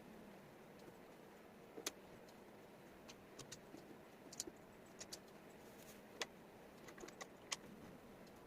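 Small wooden jigsaw puzzle pieces being handled and set down on a table: about a dozen sharp, irregular clicks and taps over a faint hiss.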